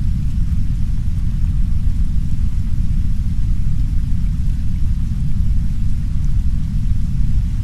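Heavy brown noise: a steady, deep rumble that does not change, with a faint hiss of soft rain over it.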